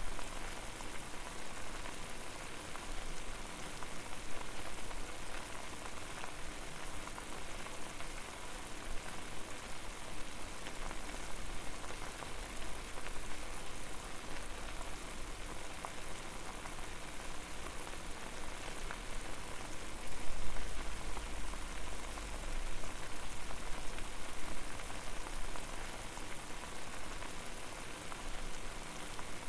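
Water boiling hard over a fire: a dense, steady bubbling and popping. A low rumble swells briefly about two-thirds of the way through.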